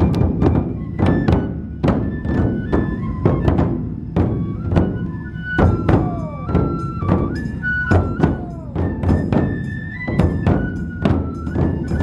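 Matsue dō festival music: large taiko drums struck several times a second in a driving rhythm, with a bamboo flute playing a stepping melody over them.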